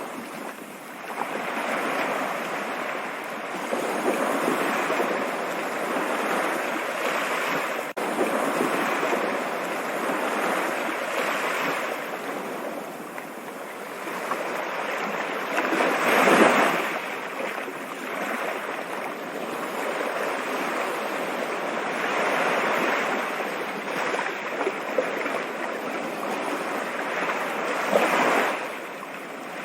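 Stream water running steadily, a continuous rushing that swells and eases every few seconds, with a stronger surge about halfway through and another near the end.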